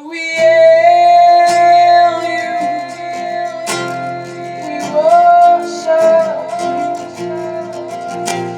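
Worship song: a voice singing long held notes that slide from one pitch to the next, over guitar accompaniment.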